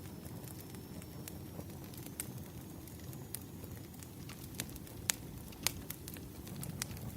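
Wood fire crackling: a steady low rumble with irregular sharp pops of burning firewood, the two loudest about five and six seconds in.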